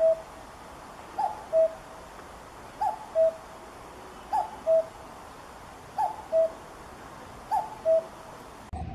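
Common cuckoo calling its two-note "cuck-oo", a higher falling note then a lower held one, repeated about six times at an even pace of one call every second and a half. Near the end the recording cuts abruptly to a different, rougher one.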